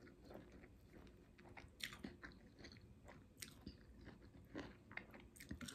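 Faint chewing and mouth sounds of a person eating rice and pork curry with greens, with soft scattered clicks and smacks.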